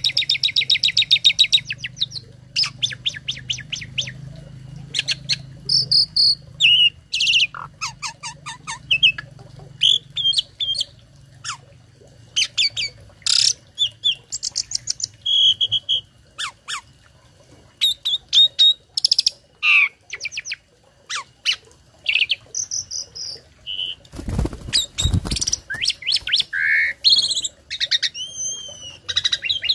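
Asian pied starling (jalak suren) singing a varied, broken-up song: fast clicking rattles, sharp whistled notes and chatters, with phrases mimicked from other birds. A loud low thump about 24 seconds in.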